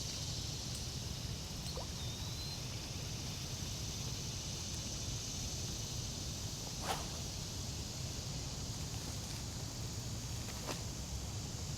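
Steady outdoor background noise, a low rumble under a high hiss, with a short chirp about two seconds in and a single sharp click about seven seconds in.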